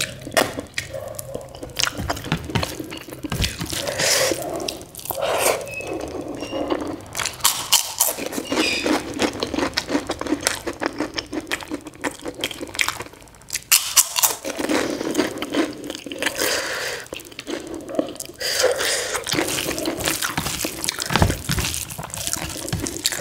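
Close-miked eating: chewing of rice and soya curry eaten by hand, with wet mouth sounds and many small clicks.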